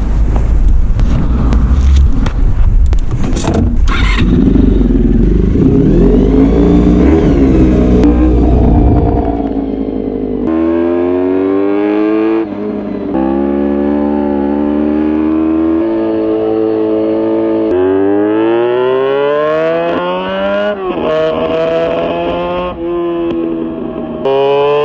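Honda VFR400 NC30's V4 engine through a GP exhaust, ridden. For the first ten seconds it is a rough, noisy blare with a few sharp cracks. After that the engine note climbs again and again, dropping back at each gear change as the bike accelerates up through the gears.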